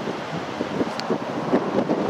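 Strong wind buffeting the microphone in uneven gusts, a rough rushing noise.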